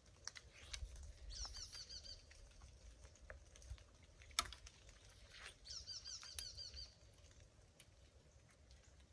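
Quiet outdoor background with a small bird's repeated chirping phrase heard twice, about a second in and again near six seconds. A few light clicks from a compound bow being handled come between them, the sharpest about four and a half seconds in.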